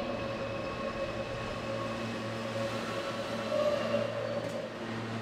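New York City subway L train arriving at an underground platform: a steady hum and whine of its motors and wheels over the rumble of the moving cars.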